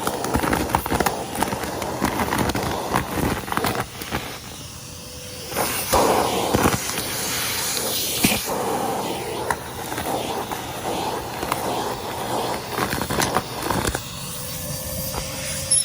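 Henry cylinder vacuum cleaner running and sucking up crunchy debris, a steady rushing hiss broken by many quick clicks and rattles as bits are pulled through the hose.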